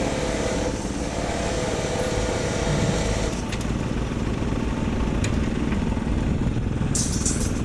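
Diesel engines of heavy road-construction machinery running steadily, with a thin whine that stops about three seconds in, a few faint clicks, and a short hiss near the end.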